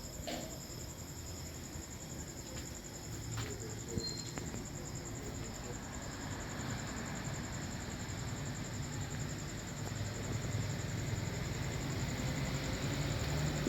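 Crickets trilling steadily and high-pitched, with a low rumble that grows louder about two-thirds of the way in and a few faint clicks.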